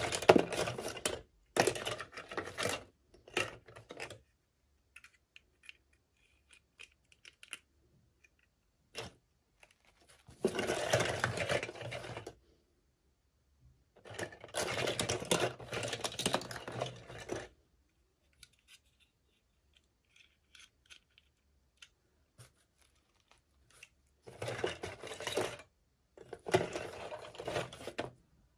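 Toy packaging being handled and opened: crinkling and tearing plastic and paper in about six bursts of one to three seconds, with near-quiet gaps between that hold faint small clicks and taps.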